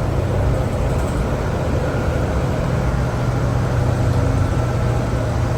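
Inside a moving 2011 New Flyer D60LFR articulated diesel bus: its Cummins ISL9 diesel engine with an Allison transmission runs at a steady pitch, with a low hum over road and tyre noise.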